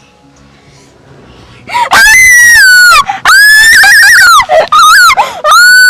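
A person screaming with thrill in very high-pitched, long held screams on an adventure ride. The screams start about two seconds in, four in a row.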